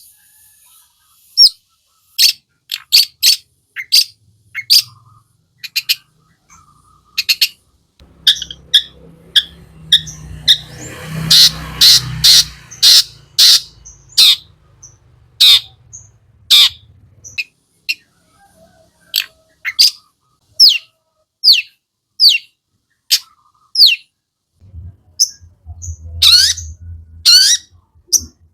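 Long-tailed shrike (cendet) singing aggressively: a string of short, sharp, harsh notes, some falling in pitch, with a fast run of calls about ten seconds in. A low hum lies underneath for several seconds in the middle and again near the end.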